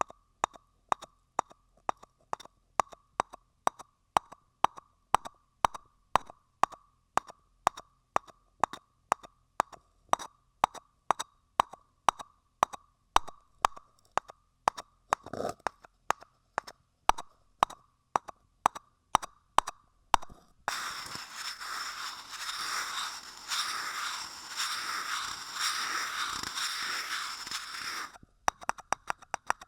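ASMR tapping on a hard object that gives a short ringing note, in an even rhythm of a little over two taps a second. About twenty seconds in, the taps give way to a dense scratchy noise for about seven seconds, and the tapping resumes near the end.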